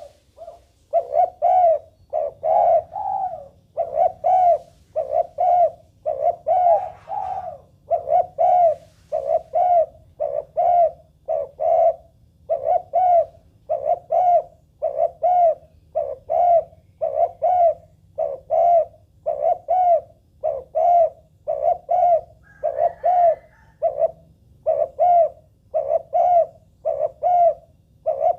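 Spotted dove cooing: a long, even run of short coos, about one a second.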